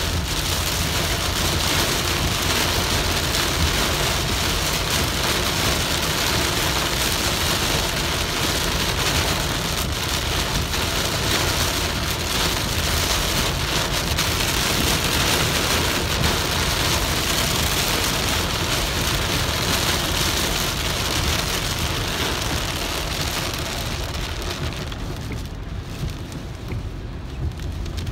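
Heavy rain falling on a car's roof and windshield, heard from inside the moving car over a steady low road rumble. The rain noise thins out near the end.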